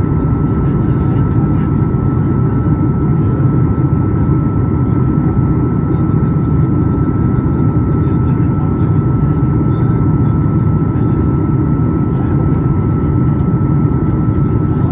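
Steady engine and airflow noise inside the cabin of a Boeing 737 MAX 8, a loud even rumble with a constant thin whine above it.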